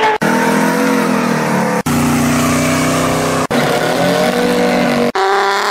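Car engines revving hard during tyre burnouts, the engine note rising and falling. It comes in short clips spliced one after another, with abrupt cuts about every second and a half.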